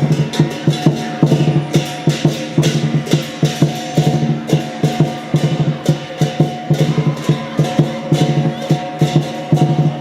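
Lion dance percussion band playing drum and cymbals in a fast, steady rhythm, with sustained ringing tones under the strikes.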